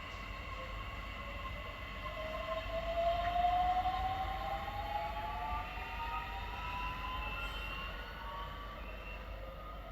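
Electric train running past, its traction motors giving a whine of several tones that rise slowly in pitch, over a low rumble. The sound is loudest about three to four seconds in.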